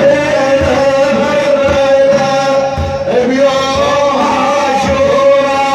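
Male voices chanting a devotional manqaba in praise of the Prophet, holding long sung notes over low frame-drum beats.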